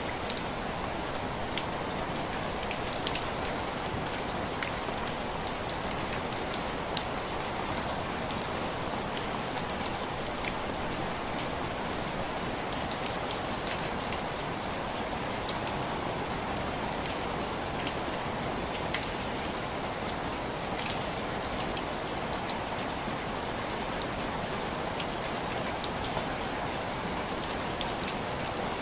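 Steady rain on window glass: an even hiss of falling rain with many separate drops ticking against the pane.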